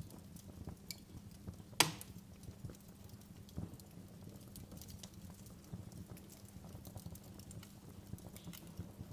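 Wood fire crackling in a fireplace: a steady run of small irregular crackles over a low rumble, with one loud sharp pop about two seconds in.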